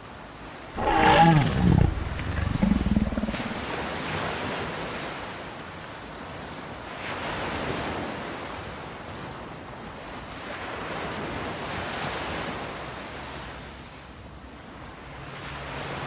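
Ocean surf washing in, swelling and easing about every four seconds. About a second in, a loud deep roar falls in pitch and dies away after about two seconds.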